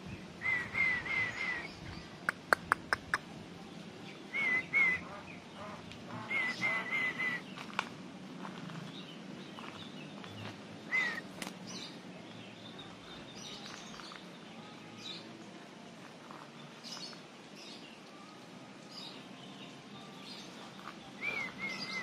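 A bird calling in short runs of repeated chirping notes, several times, with a few sharp clicks about two to three seconds in. Fainter, higher calls continue through the second half.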